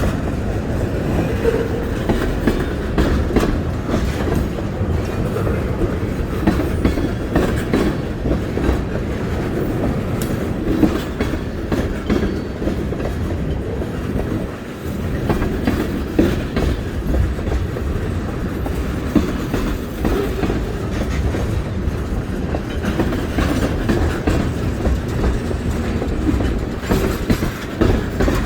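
Train cars rolling past with a steady rumble and the continuous clickety-clack of wheels over the rail joints.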